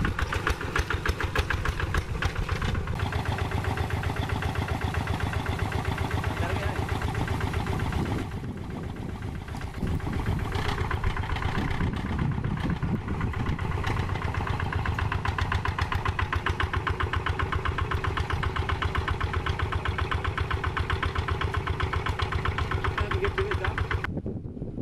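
Single-cylinder diesel engine of a Quick G3000 Zeva two-wheel hand tractor running steadily with a rapid, even chug as it works. It eases off and runs softer for a couple of seconds about eight seconds in, then picks back up.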